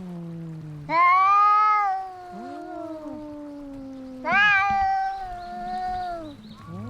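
Cats fighting: two loud, drawn-out yowls, about a second in and about four seconds in, each sliding down in pitch at the end, with a lower growling moan held between them.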